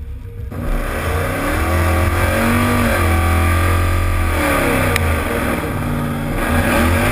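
A 2012 Ford Mustang 5.0's Coyote V8 revving hard through a burnout with the rear tyres spinning. The revs climb about half a second in and hold high, drop off shortly after the midpoint, then rise again near the end.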